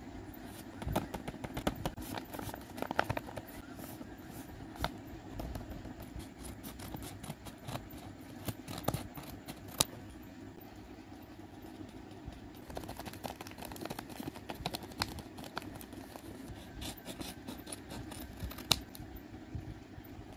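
Lined notebook paper being handled and unfolded, making scattered crinkles and sharp paper clicks over a steady low background hum.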